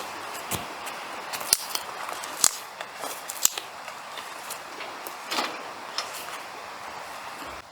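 Handling noises: sharp clicks and light knocks, the loudest about one, two and three seconds in, over a steady hiss.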